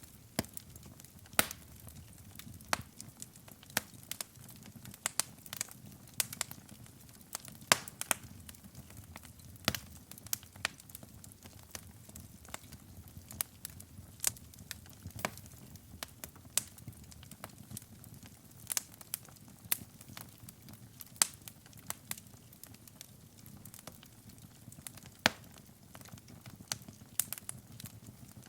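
Wood fire burning in a fireplace: sharp, irregular pops and crackles from the burning logs over a soft, steady low rumble of the flames.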